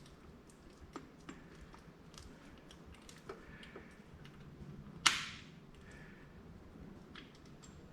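Scattered small clicks and taps of hand work on an engine while fitting a fuel pump, with one sharp, loud knock about five seconds in.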